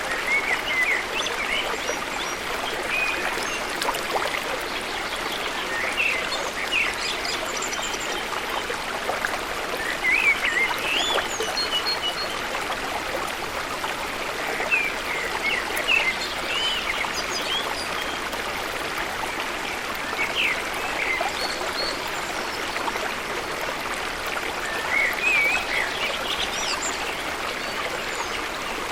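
Steady rush of flowing water from a waterfall and its stream, with birds singing short, quick chirping phrases every few seconds over it.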